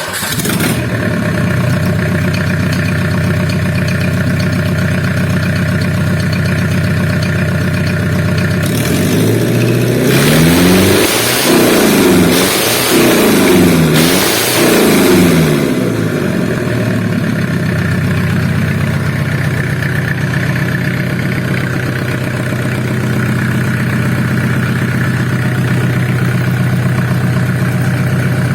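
2.5-litre diesel engine of the Fiat Ducato / Iveco Daily / Renault Trafic family running at idle. About nine seconds in it is revved in about four quick rises and falls, then settles back to a steady idle. It runs evenly, a sign of an engine in very good condition.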